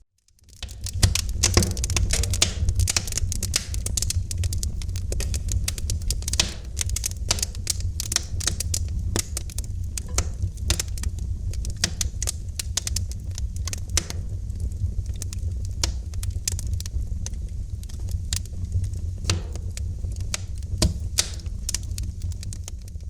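Wood fire crackling in a fireplace: dense, irregular pops and snaps over a steady low rumble of burning. It fades up from near silence in the first second.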